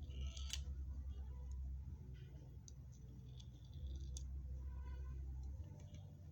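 Light clicks and ticks from handling small beads and pins and working a bead rivet setting machine, the sharpest about half a second in, over a low steady hum.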